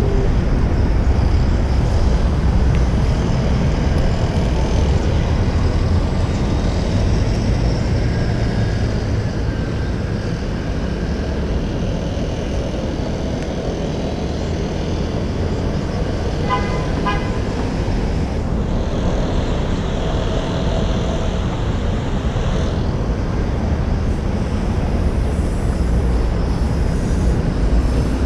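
Wind rumble on a bike-mounted action camera's microphone over steady city street traffic. A vehicle horn toots briefly about two-thirds of the way through.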